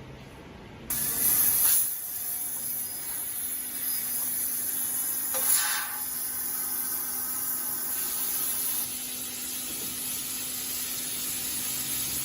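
CNC laser tube cutting machine cutting, a steady hiss of gas jetting from the cutting head that starts suddenly about a second in, with a low steady hum underneath. The hiss is loudest for a moment at the start and swells once more around the middle.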